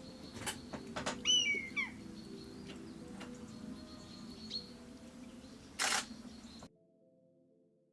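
Camera shutter clicks in a bird hide, with a short falling bird call about a second in and a louder burst of shutter clicks near the end. The sound then drops suddenly to faint music.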